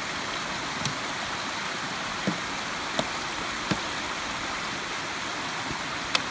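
Small mountain stream rushing steadily, with a handful of sharp knocks from trekking poles and boots striking the wooden plank footbridge over it.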